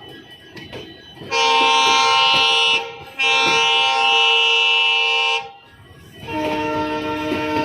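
WDG 3G diesel locomotive's horn sounding two long blasts with a short break between them. Music comes in near the end.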